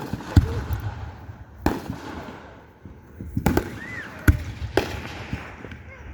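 Fireworks exploding overhead: a string of about six sharp bangs at uneven intervals, each followed by a low rumbling echo and crackle.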